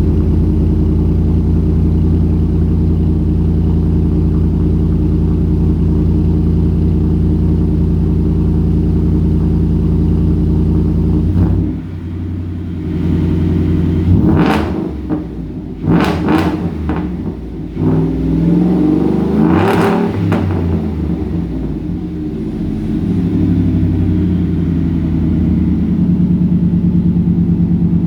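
Ford 5.0 Coyote V8 running through a Borla XR-1 Sportsman muffler and dual exhaust, idling steadily just after a semi-cold start. About eleven seconds in the idle drops. Then come a few quick throttle blips and one longer rev near the twenty-second mark, before it settles back to a steady idle.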